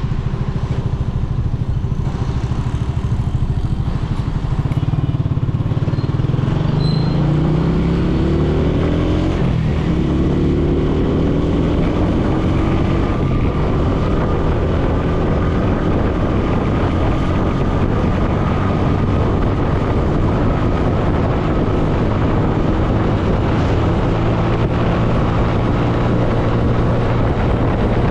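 Motorcycle engine on the move, heard from the bike: it picks up speed about five seconds in, its pitch climbing, drops briefly at a gear change, climbs again and then runs steadily at cruising speed.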